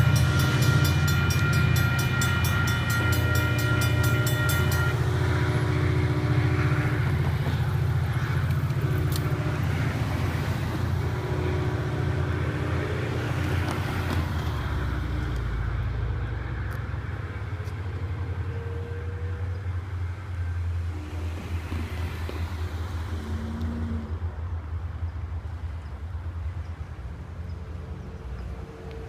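ACE commuter train's diesel locomotive passing and moving away, its low rumble steadily fading. Its horn sounds loudly for the first few seconds, then fainter horn blasts follow on and off until about halfway.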